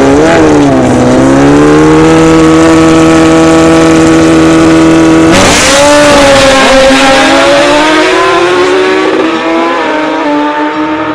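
Drag-racing motorcycle engines revving, then held at a steady high pitch for a few seconds. About five seconds in there is a sudden loud burst and the engine note changes and climbs, then eases off near the end.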